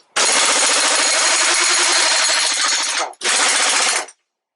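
Heavy pneumatic impact wrench hammering away at the puller's bolt to loosen it, one run of nearly three seconds, then a brief stop and a second short burst of about a second.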